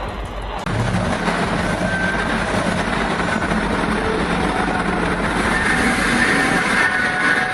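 A heavy vehicle running, a steady, noisy rumble that grows louder just under a second in.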